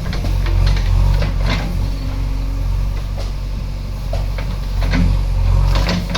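JCB 3DX backhoe loader's diesel engine running steadily under work, with repeated sharp knocks and cracks throughout.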